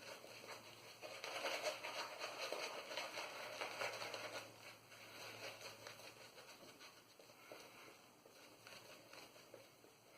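Faint wet, crackly brushing of a small Omega 10075 boar-bristle shaving brush working Proraso Red lather, busiest in the first half and fading away after about six seconds.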